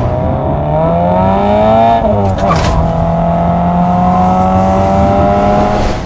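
Toyota GT86's 2.0-litre flat-four engine pulling under acceleration: the revs climb for about two seconds, fall sharply at a gear change, then climb slowly again in the next gear.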